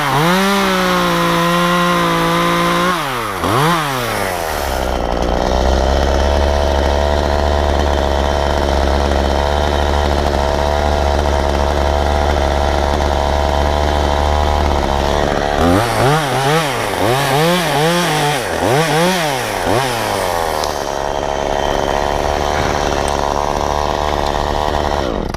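Efco MTT 3600 top-handle chainsaw at high revs for the first few seconds, then dropping to a low steady idle. About two-thirds of the way in it is revved in four or five quick blips, then settles again.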